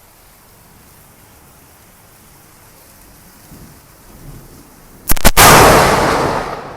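Faint steady hiss, then about five seconds in a thunderclap: a sharp double crack followed by a loud rumble that fades over about a second and a half.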